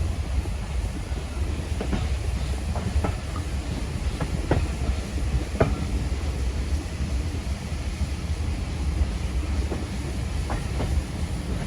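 Heritage steam train running along the track: a steady low rumble of the carriage on the rails, with scattered sharp clicks of the wheels.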